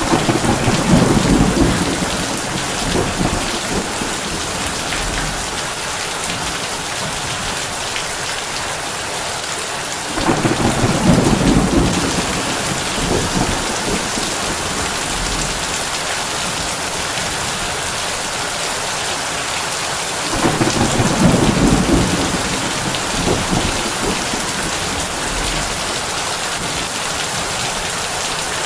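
Heavy rain on a tin roof, a steady hiss throughout. Three low rolls of thunder come about ten seconds apart: one at the start, one about ten seconds in and one about twenty seconds in, each fading over two or three seconds.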